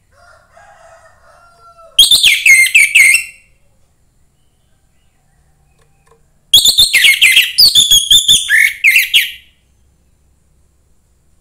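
Young wild-caught orange-headed thrush singing: two loud bursts of rapid, sweeping high notes, the first about two seconds in lasting about a second, the second starting past six seconds in and lasting about three seconds.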